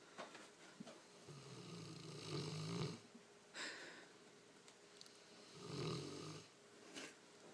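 A dog snoring in slow, faint breaths: a long snore, a short sharp breath, then another snore a few seconds later.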